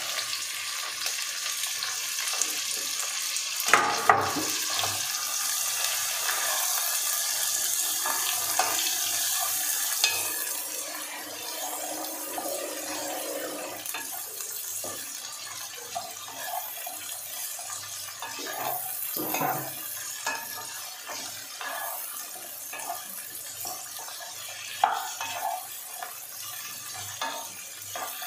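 Cauliflower and other chopped vegetables sizzling in hot oil in a kadhai, stirred with a wooden spatula that scrapes and knocks against the pan. The sizzle is loudest for the first ten seconds after the vegetables go in, then settles lower, with two sharp knocks about four seconds in.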